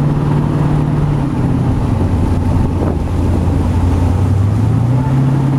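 A homemade jet boat's 350 V8 engine running steadily at low speed, its note dropping slightly about a second in and rising again near the end. The pump on the engine sounds bad, which the owners take for a failing water pump. Wind is blowing on the microphone.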